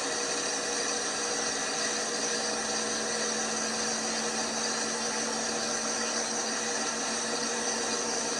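LG washing machine running with a steady motor whir that stays level and unchanging throughout.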